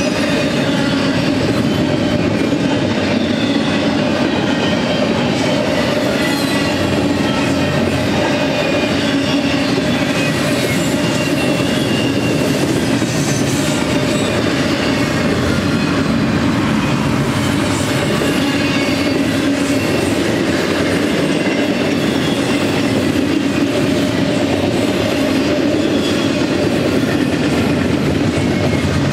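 Double-stack intermodal container cars of a freight train rolling past at speed, with a steady, loud rumble and clatter of steel wheels on the rails.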